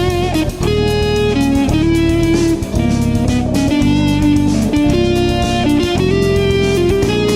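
Jazz fusion recording: electric guitar playing a melodic line of held and moving notes over a steady low accompaniment, with a continuous quick clicking pulse.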